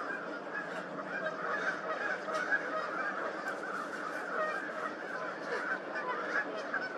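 A flock of geese honking continuously, many overlapping calls at once.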